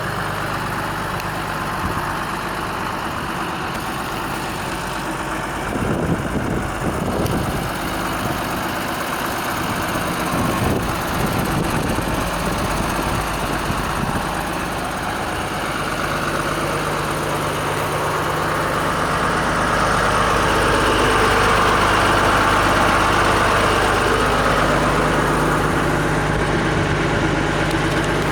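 Renault 110-170 4x4 truck's diesel engine idling steadily, rougher and busier for a stretch from about five seconds in, and a little louder past the twenty-second mark.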